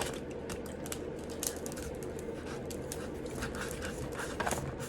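Faint scattered clicks and rustles of gummy candy being handled and eaten, over a steady low hum.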